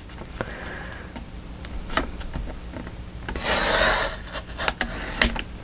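Paper being cut: small clicks and rustles, then one longer rasping cut about three and a half seconds in.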